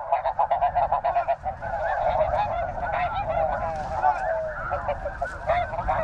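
A large flock of snow geese calling together: a continuous din of many overlapping short, high honks.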